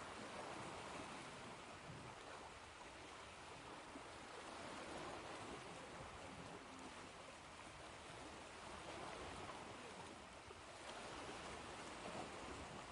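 Ocean waves washing softly onto a shore: a faint, steady hiss of surf that swells and eases gently about every four seconds.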